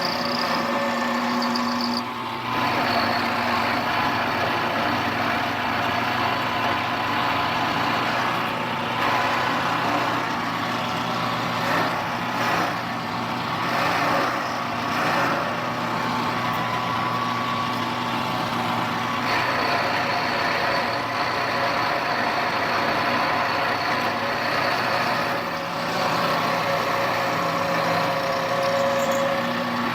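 Milling machine running steadily with a motor whine, its end mill roughing out an opening in a lathe headstock; the cutting noise swells and varies for several seconds in the middle.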